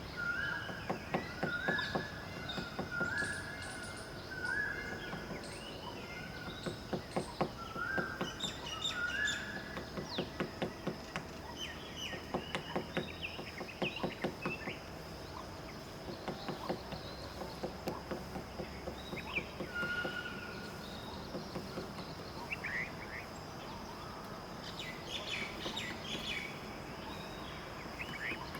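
Woodpecker tapping on wood in irregular clusters of quick knocks, with songbirds chirping. A short whistled note repeats several times in the first ten seconds, over a steady high tone.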